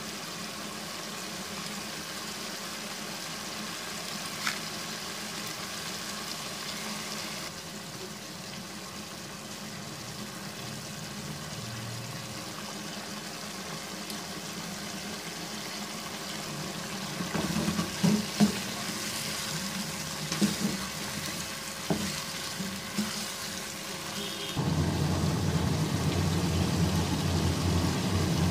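Mutton frying in oil in a karahi pan, a steady sizzle. A few sharp knocks of a spoon against the pan come in the second half, and the cooking sound turns louder and lower near the end.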